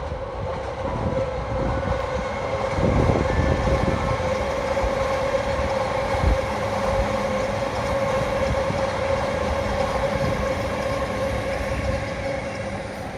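E231 series electric commuter train running along the line: a continuous rumble of wheels on rail with a steady tone over it, swelling a few seconds in and easing off near the end.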